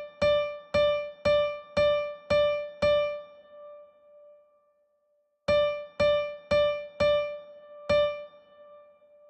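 Music: a single high keyboard note struck repeatedly about twice a second, six strikes that ring out. After a pause of about two seconds, five more strikes follow.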